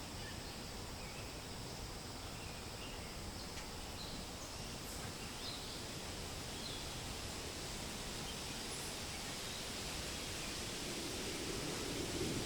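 Steady wind rustling through forest leaves, with faint, scattered bird chirps in the first half; the wind swells slightly near the end.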